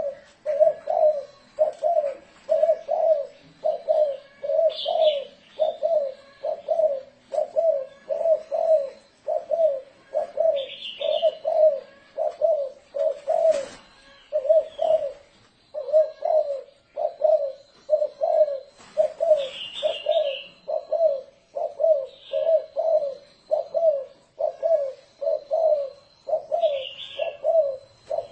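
Spotted dove cooing in the rolling 'thổ rền' style: a long unbroken run of short, low coos at about one and a half a second, pausing briefly once near the middle. A few faint high chirps come in between the coos, and there is a single sharp click in the pause.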